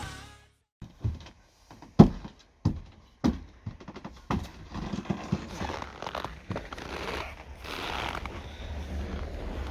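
A series of sharp, irregular knocks, roughly one every half second, followed from about halfway by a steady rustling hiss that grows louder.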